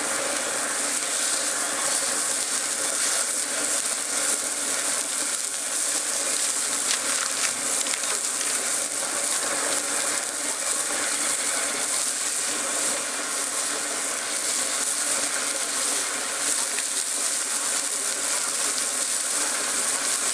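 Steady sizzling of ground beef and sausage burger patties frying on a Blackstone flat-top griddle, mixed with a deep fryer cooking fries, with a few faint ticks.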